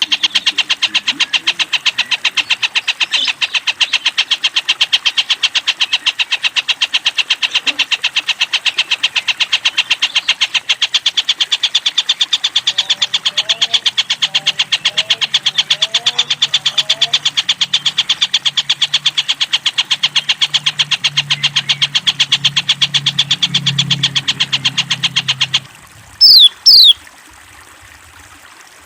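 Tengkek buto kingfisher giving a long, fast, even rattling trill that cuts off suddenly near the end. Two sharp, loud falling notes follow.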